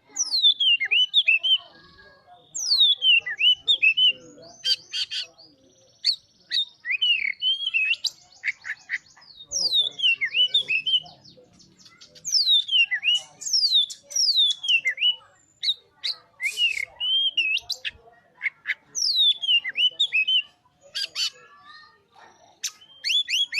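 Oriental magpie-robin (kacer) singing continuously: loud phrases of sweeping down-slurred whistles, repeated every two or three seconds, broken by sharp clicking notes and short rapid trills.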